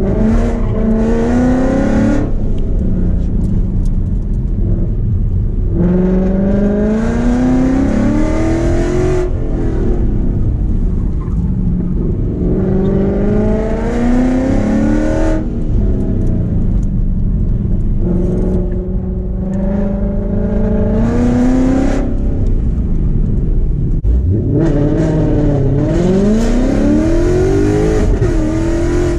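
2015 Mustang GT's 5.0 V8 through long-tube headers, an X-pipe and Borla ATAK mufflers, heard from inside the cabin, accelerating hard on and off the throttle. About five pulls, each rising in pitch, with quieter lifts between them.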